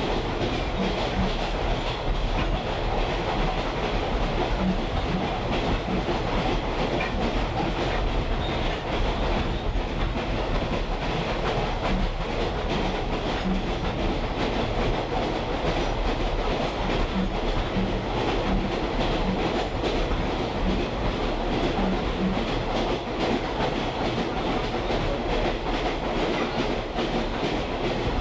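A train heard from a rolling caboose: a steady rumble of steel wheels on the track, with short clicks in pairs every few seconds as the wheels cross rail joints.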